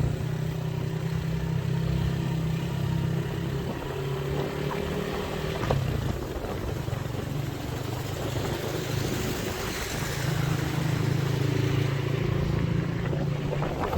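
Motorcycle engine running at a steady cruise while riding. The engine note eases off about six seconds in and comes back up around ten seconds.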